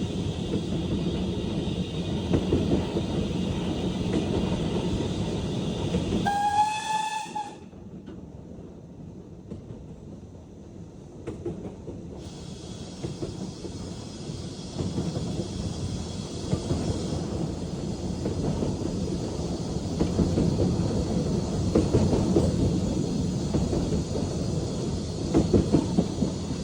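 Steam-hauled train running on the rails, with a steady rumble and wheel clatter. About six seconds in, the steam locomotive's whistle sounds once for about a second. The sound then drops and goes muffled for about five seconds before the running noise returns, louder near the end.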